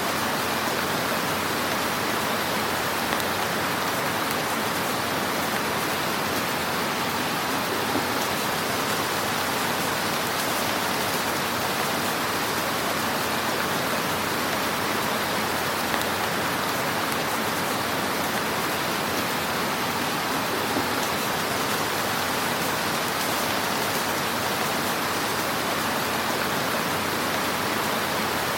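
Fire burning in a fireplace: a steady hiss with a few faint crackles and pops.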